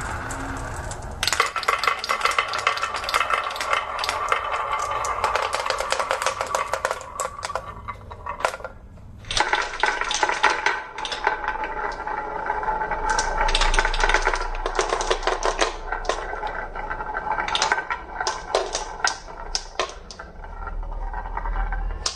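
Marbles rolling and clattering down a marble run track in a dense stream of rapid clicks, with a brief lull partway through before the clattering resumes.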